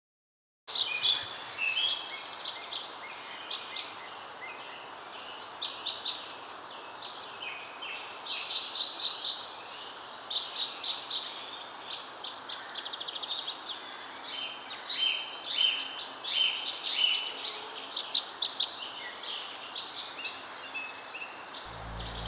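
Birds chirping and singing, many short overlapping calls over a steady background hiss.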